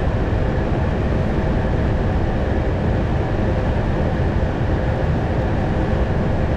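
Steady cockpit noise of an Airbus A220 on final approach: a constant rush of airflow with a faint steady hum underneath.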